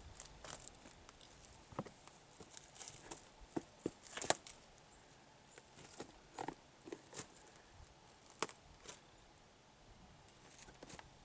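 Scattered light clicks and rustles at an irregular pace, with two sharper clicks, about four seconds in and again about eight and a half seconds in.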